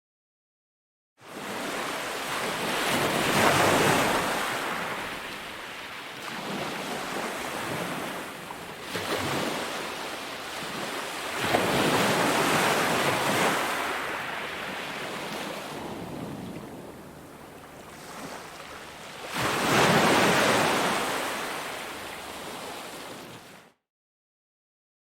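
Ocean waves breaking on a beach: three swells of surf, each rising and falling away, about eight seconds apart. The sound drops out to complete silence for about a second at the start and again near the end.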